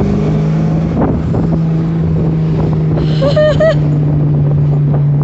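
Ford Mustang's loud modified exhaust droning steadily at cruise from inside the moving car, with wind rushing past. A short high-pitched warbling vocal sound cuts in about three seconds in.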